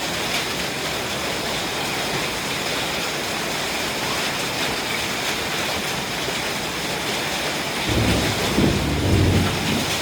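Heavy rain and hail of a thunderstorm pouring down in a steady hiss, with a low rumble of thunder near the end.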